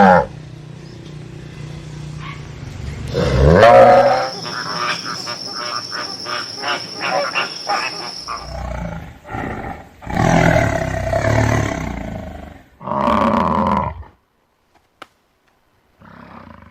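Lion roaring: a long, loud call falling in pitch about three seconds in, then a run of short calls about three a second, and further roars later.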